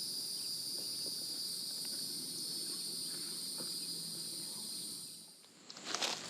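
Steady, high-pitched drone of insects, which stops about five seconds in. Footsteps follow near the end.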